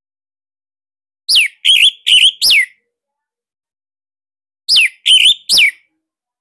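Orange-headed thrush (anis merah) giving loud, sharp 'tembakan' calls in the style of the sirtu: a quick run of four short notes, then after a pause a run of three. Each note drops steeply in pitch or wavers high.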